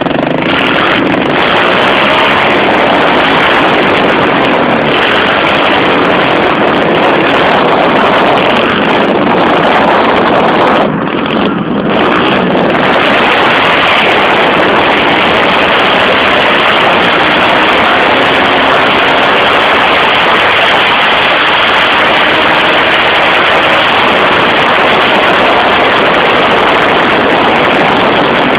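110cc pit bike engine running and revving up and down through repeated wheelies, its pitch rising and falling under a loud, even rush of noise. The sound drops briefly about eleven seconds in.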